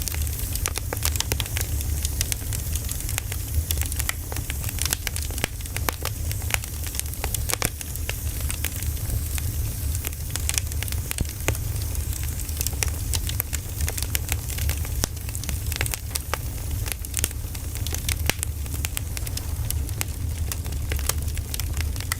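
Wood fire crackling: many irregular pops and snaps over a steady low rumble.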